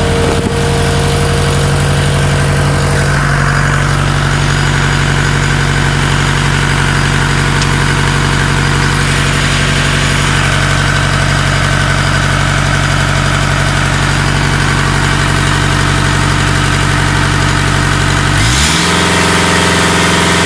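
Thermo King unit's Isuzu diesel engine running steadily just after its first start in several years, fired without glow plugs. Near the end its speed rises.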